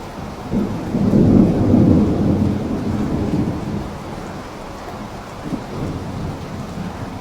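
Steady rain with a low rumble of thunder that swells about a second in and fades away over the next few seconds.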